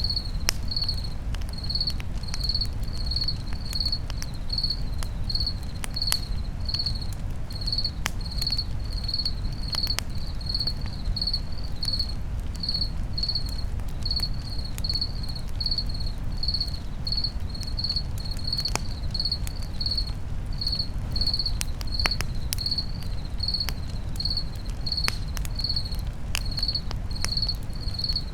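Campfire crackling with scattered sharp pops over a steady low rumble, while an insect chirps evenly, about two high chirps a second.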